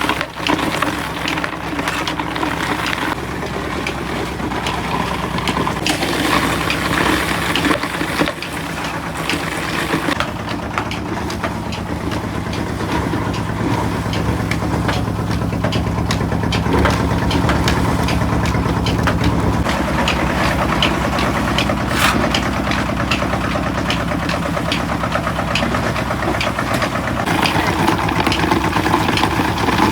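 Engine-driven machinery running steadily, its pitch shifting a few times, with frequent clicks and knocks over it.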